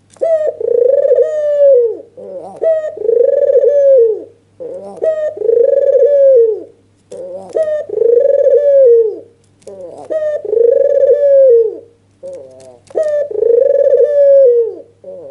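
White (albino, red-eyed) Barbary dove giving its excited bowing coo over and over: a short note followed by a long rolling coo, about six times, one every two seconds or so. A faint steady low hum runs underneath.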